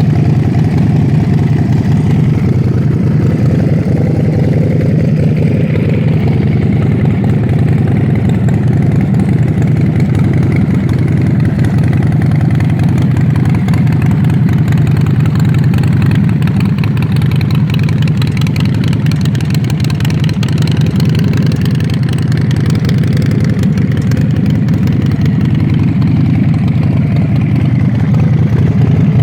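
Custom chopper motorcycle's 2-litre engine idling steadily, with a low, even beat and no revving.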